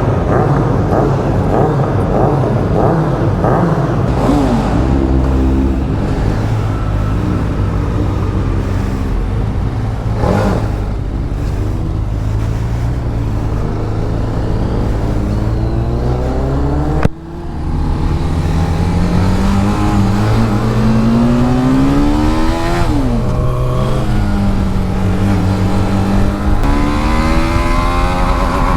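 TVS Apache RR310's single-cylinder engine and exhaust under hard track riding, the note climbing as it accelerates and dropping sharply at gear changes and off the throttle. A sharp click with a brief dip in sound comes about two-thirds of the way through.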